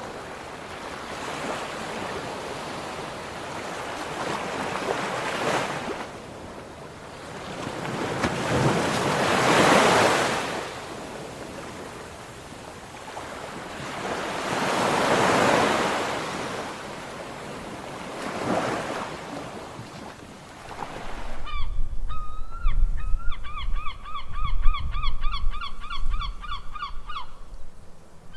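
Ocean surf: waves wash in, swelling and falling away about every five to six seconds. Then the sound cuts abruptly to wind buffeting the microphone, and a bird gives a long, rapid series of harsh, pitched calls.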